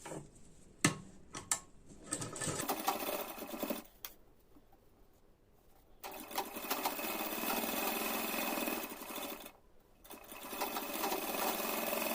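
Sewing machine stitching a half-inch seam along a folded fabric strip. It runs in three stretches of a few seconds each with short pauses between, after a few sharp clicks at the start.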